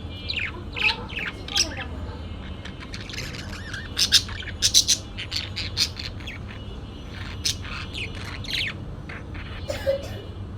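Parakeet calls: a run of short, sharp squawks and chirps, busiest about four to five seconds in, over a low steady hum.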